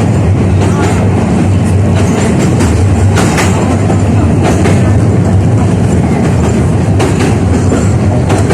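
71-605A (KTM-5A) tram running along the track, heard from inside the car: a steady low rumble of wheels and running gear, with a few sharp clicks as the wheels pass over rail joints.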